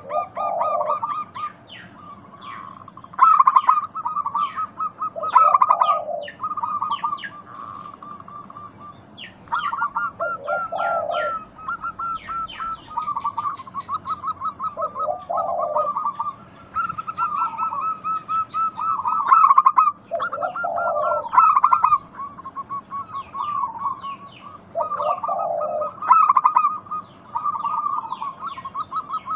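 Zebra doves (perkutut) cooing: rippling, repeated phrases, each closed by a lower coo about every five seconds, with short high chirps of other small birds in between.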